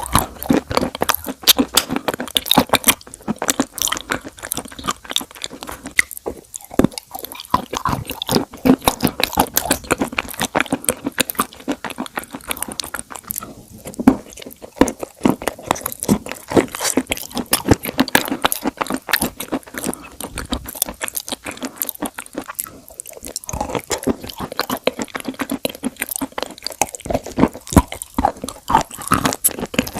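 Crunchy food being bitten and chewed close to the microphone: dense, rapid crackling crunches, with a few brief pauses between mouthfuls.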